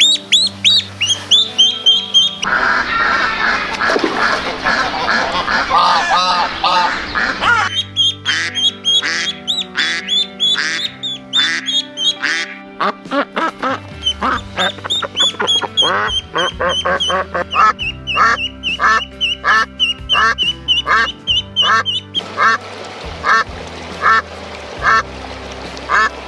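Ducks quacking in long runs of short, repeated calls, over background music.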